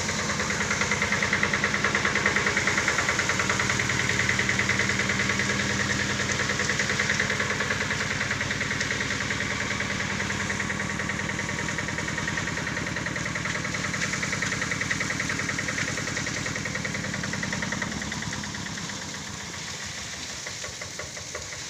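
Engine of road-repair machinery running steadily with a fast, even pulsing beat, easing off somewhat near the end.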